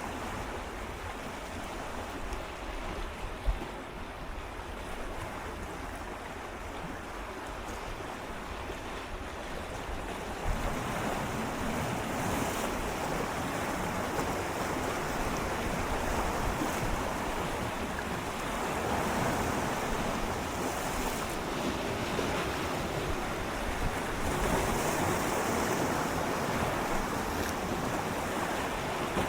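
Gentle sea waves swirling and lapping against shoreline rocks in close-up, a steady wash that swells and ebbs every few seconds and grows louder about a third of the way in. A brief low thump sounds once a few seconds in, with a little wind on the microphone.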